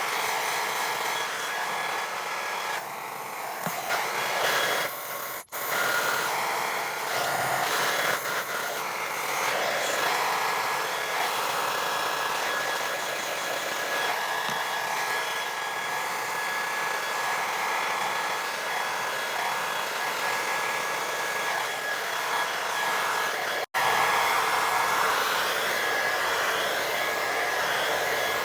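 Negative-ion hair dryer blowing steadily with a thin, high whine over the rush of air, used to straighten hair. It breaks off for an instant twice, about five seconds in and again near the end.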